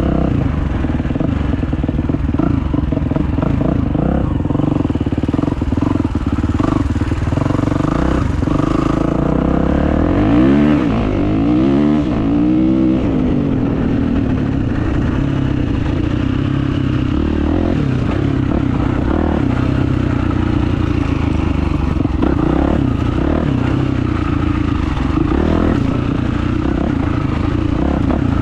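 Kawasaki motocross bike's engine running as the bike is ridden, the revs rising and falling several times about ten to thirteen seconds in.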